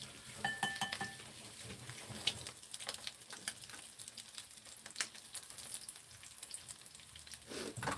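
Egg-coated sausage slices frying in plenty of oil in a pan, sizzling and crackling steadily as the oil spatters, while they are turned with chopsticks.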